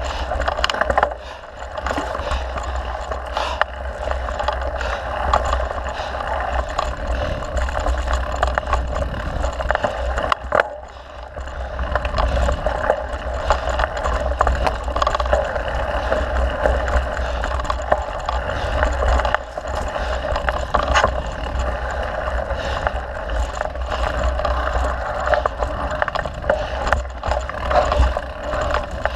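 Mountain bike being ridden over a dirt trail: steady wind rumble on the microphone, with tyre noise and frequent rattles and knocks from the bike over rough ground. The noise eases briefly about a second in and again near the middle.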